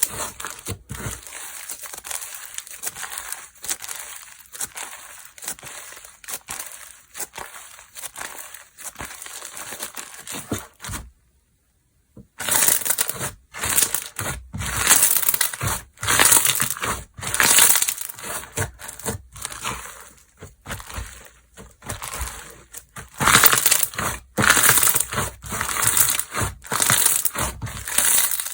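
Slime being squeezed, poked and pressed by hands, making dense crackling and clicking sounds. It stops for about a second near the middle, then comes back louder in repeated squeezes.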